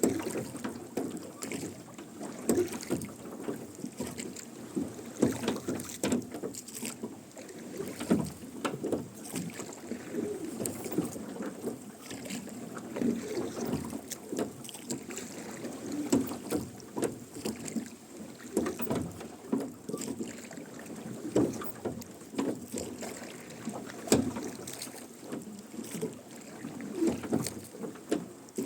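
Rowing boat under oars: oars splashing and dipping in the water with creaking and knocking oarlocks, one stroke about every three seconds.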